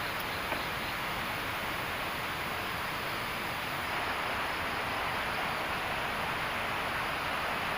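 River flowing behind the hut: a steady, even rush of water.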